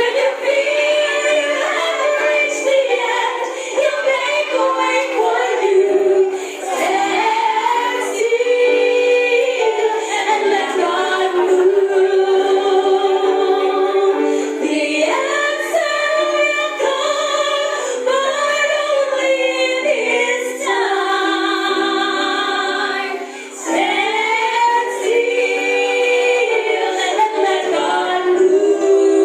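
A group of voices singing a song together, choir-style, with continuous melodic lines and a thin sound lacking bass.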